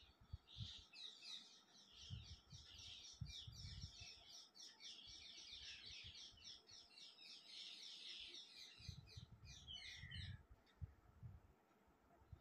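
Faint birds chirping outdoors, a rapid chattering run of many quick notes that stops shortly before the end.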